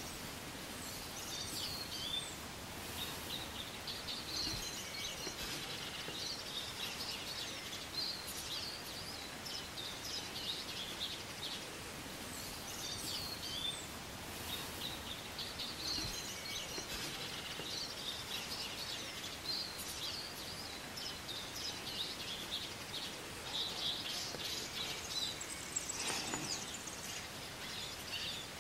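Songbirds twittering in long phrases of quick, high chirps over a steady background hiss.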